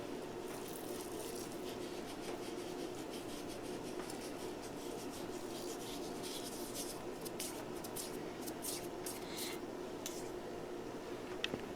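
Seasoning salt being shaken over chicken pieces in a roasting pan: faint scattered ticks and rustles over a steady room hum, with a couple of sharper clicks near the end.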